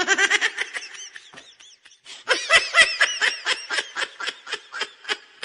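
A baby laughing in a quick run of high, breathy giggles, several a second; the laughter thins out, then a louder run starts about two seconds in and tails off toward the end.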